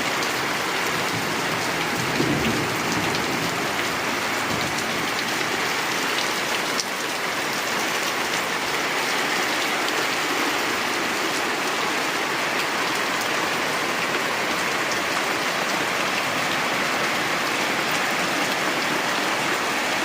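Steady rain falling and drumming on surfaces.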